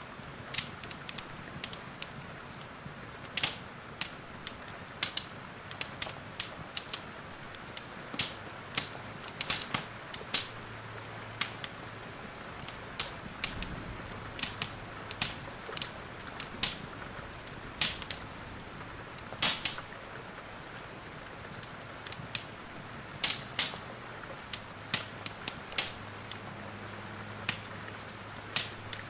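Steady hiss of rain with the irregular sharp crackles and pops of a wood fire burning in a fireplace.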